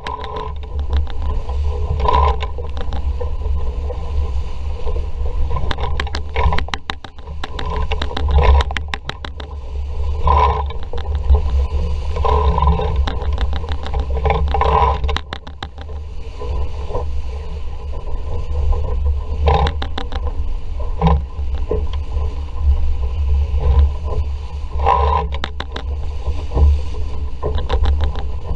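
Wind buffeting the camera microphone on an RS Vareo sailing dinghy in a breeze: a steady low rumble, with water rushing past the hull and irregular knocks and rattles from the boat.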